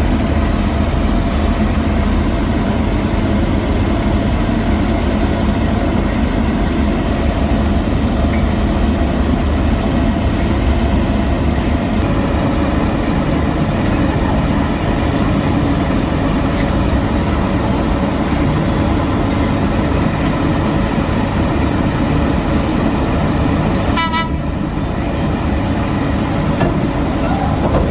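Diesel engines of heavy road-paving machinery running steadily with a low rumble. Near the end a brief toot, like a horn, sounds once.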